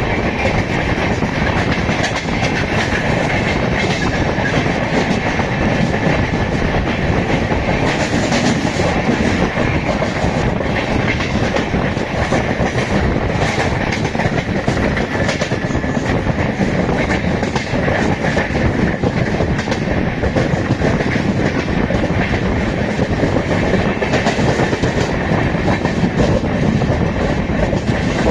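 Express passenger train running at speed, its wheels clattering over the rail joints in a steady, loud rumble.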